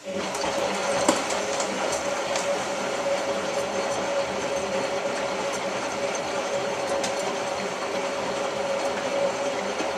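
Hotpoint 9534A washing machine's drum motor turning the drum in a wash tumble during a Cotton 85 descaling cycle: a steady whine over a hiss, starting abruptly.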